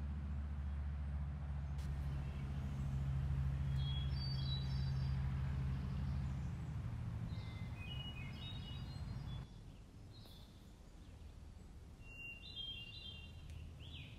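Birds chirping in short high calls, over a low steady rumble that fades away about two-thirds of the way through.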